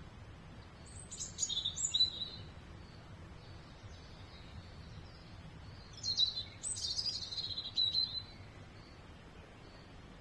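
A songbird singing two short phrases of quick, high, falling notes, the first about a second in and a longer second one about six seconds in. A faint low hum runs underneath.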